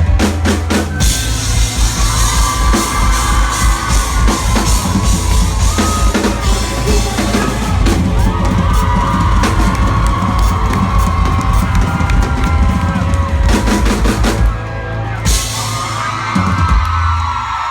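Live pop-rock band playing, with a loud drum kit and bass drum under sung voices. The cymbals and drums drop away near the end, leaving voices and a fading low end.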